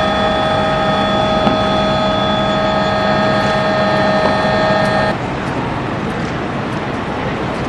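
Machinery running with a steady, multi-tone whine over a noisy rumble; the whine cuts off abruptly about five seconds in, leaving the rumble.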